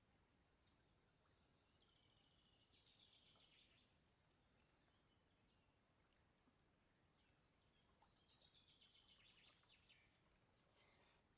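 Faint birdsong: two song phrases about five seconds apart, each a few high notes sliding downward and then a quick trill, over quiet outdoor ambience.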